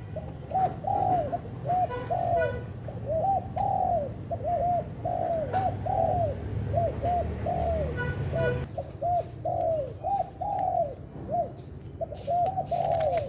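Spotted dove (tekukur) cooing repeatedly in a long run of short, rounded coos, several a second, with a steady low hum underneath.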